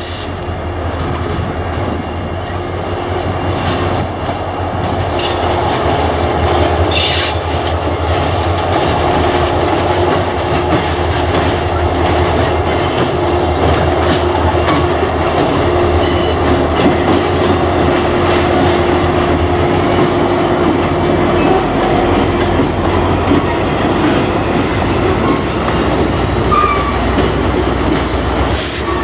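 CSX diesel-electric freight locomotives pass close by, their engines running with a steady low drone that grows louder over the first few seconds. Freight cars follow, their wheels clicking over rail joints, and a thin high wheel squeal slowly rises in pitch near the end.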